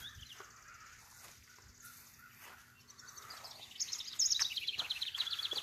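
A songbird singing a fast trill of short, high repeated notes, faint at first and loudest from about four seconds in, over faint rustling and footsteps among the garden plants.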